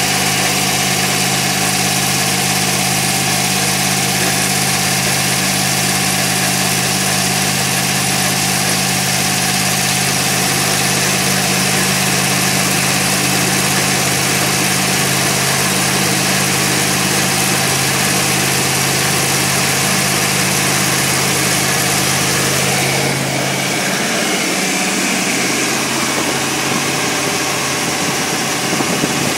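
New Ford 351 V8 with a four-barrel carburettor being run in on an engine dyno, running at a steady speed. About 23 seconds in its steady note changes and the low tones fade.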